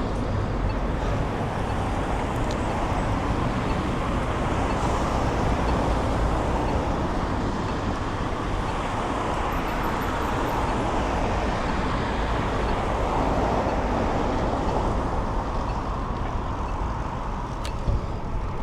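Steady road and traffic noise, mixed with wind rumble on the microphone, heard from a moving bicycle, with one sharp click near the end.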